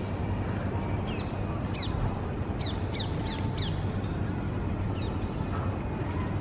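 Birds calling outdoors: scattered short, high chirps that fall in pitch, several in a quick run about halfway through, over a steady low street hum.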